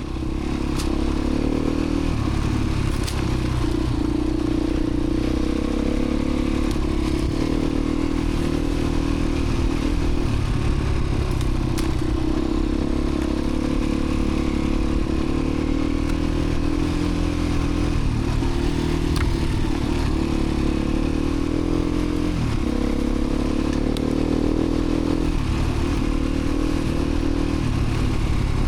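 Beta 350 RRS dirt bike's single-cylinder four-stroke engine running steadily under way on a trail ride, its pitch dipping briefly a few times as the throttle is eased, with occasional light clatter.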